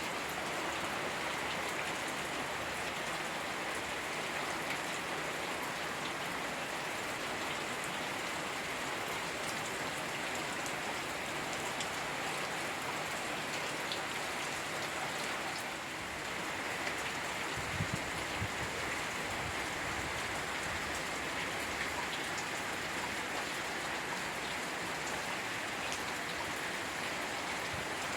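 Steady rain falling on a hard surface, a constant hiss dotted with the ticks of individual drops. A few dull low knocks come about two-thirds of the way through.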